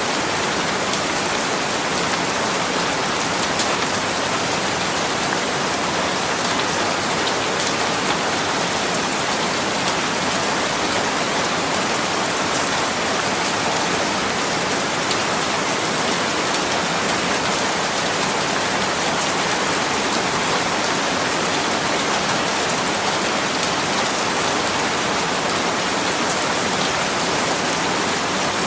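Steady rainfall: a dense, even hiss of rain on a surface with fine scattered drop ticks.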